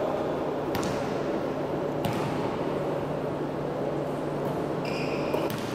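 Basketball game in a gymnasium: a steady din of players and spectators with a few sharp knocks spread through, and short high squeaks near the end.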